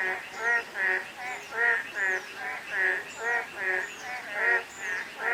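Frogs calling in a chorus: short, pitched, croaking calls repeating steadily about two to three times a second, with faint high, falling chirps in between.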